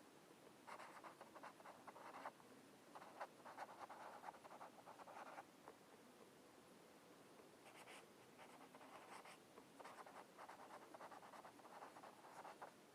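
Faint scratching of a colouring tool rubbed over paper, in quick back-and-forth strokes. The strokes come in four runs, each one to two and a half seconds long, with short pauses between them.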